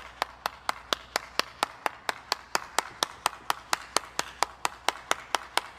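A steady run of sharp, evenly spaced clicks, about four a second, like fast rhythmic clapping.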